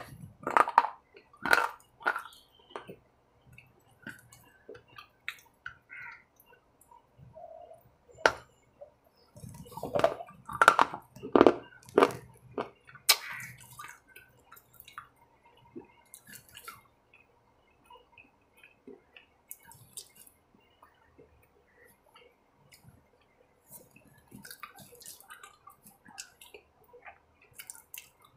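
A person biting and chewing food close to the microphone, with wet smacking mouth sounds. The chewing comes in two louder spells, at the start and again around ten to thirteen seconds in, with fainter chewing between and after.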